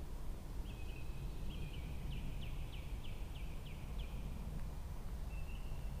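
A small bird singing: a few short high notes, then a quick run of about six down-slurred notes, and later a thin high note held for about a second, over a steady low rumble.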